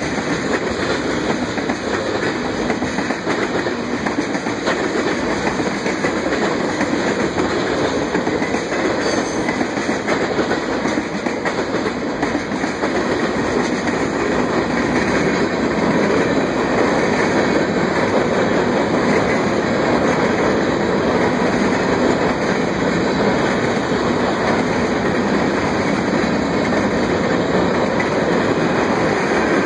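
Freight train of covered hopper grain cars rolling past at speed: a steady noise of steel wheels on the rails, growing a little louder about halfway through.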